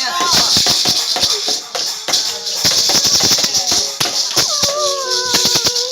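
A steady high shaking, hissing rattle mixed with many quick taps and clicks, and about four and a half seconds in, a held pitched vocal noise that glides slightly downward.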